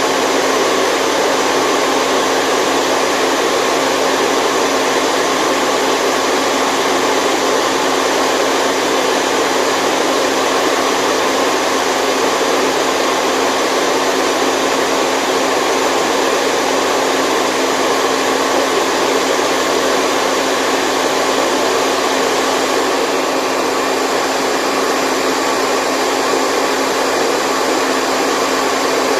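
Steady white noise for a baby's sleep: a loud, even hiss that does not change, with almost no deep bass.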